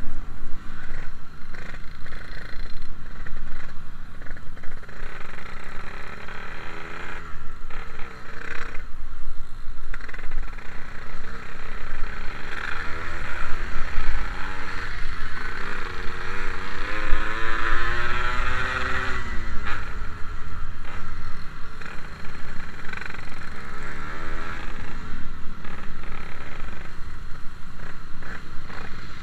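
Yamaha RX King's 135cc two-stroke single-cylinder engine under way while riding. Its pitch climbs for several seconds past the middle as it accelerates, then drops off again.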